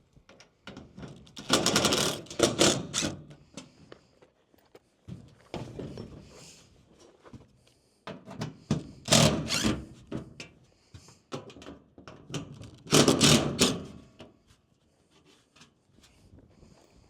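Cordless power driver running in three short bursts of rapid rattling, about two, nine and thirteen seconds in, as screws are backed out of the metal roof sheeting, with light knocks and clatter of the metal between bursts.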